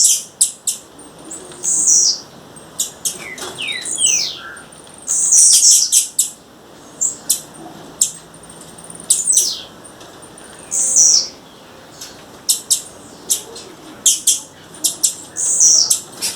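Blue-black grassquit (tiziu) calling over and over: a run of sharp, high chirps mixed with quick notes that drop in pitch, several to a second in bursts with short gaps between.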